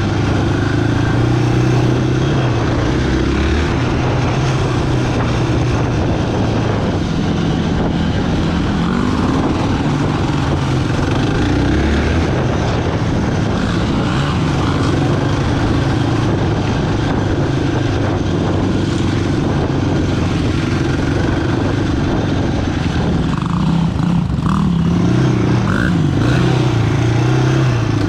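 Single-cylinder quad bike engine running while riding, its pitch rising and falling with the throttle.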